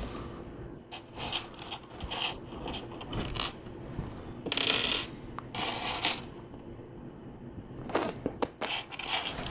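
Small plastic LEGO pieces clicking and clattering as they are handled, sorted and snapped together, with a longer rattle of parts about halfway through.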